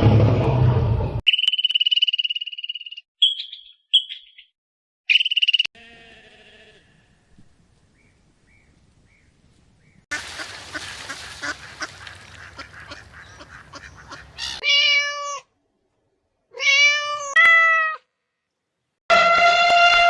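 A string of animal calls: a held high whistle and short chirps first, then a domestic cat meowing four times, the last meow long and falling in pitch.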